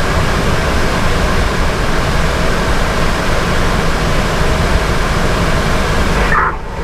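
Steady, loud rushing noise in a fire engine's cab, with its Detroit Series 60 diesel running. Near the end the hiss drops off and a brief high chirp sounds.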